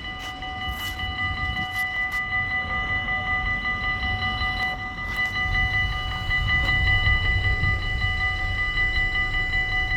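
Dutch level-crossing warning bells ringing, a fast, even ringing that does not let up, over a low rumble that grows louder around the middle.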